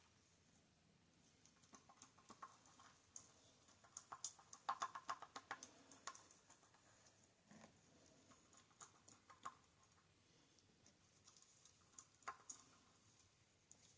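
Faint, scattered clicks and taps of plastic resin bottles and measuring cups being handled, with a quick run of clicks about four to six seconds in.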